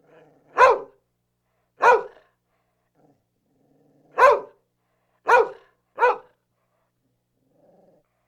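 A dog barking five times in short, sharp barks, with faint low growling between them.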